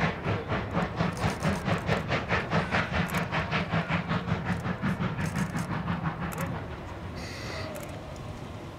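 Steam locomotive D51 200 working under steam: a steady rhythm of exhaust beats, about four a second, over a low rumble, fading away after about six seconds.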